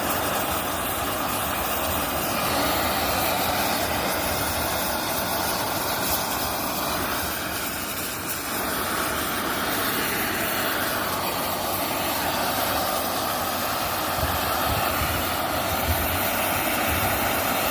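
Gas brazing torch burning with a steady hissing rush while copper is brazed.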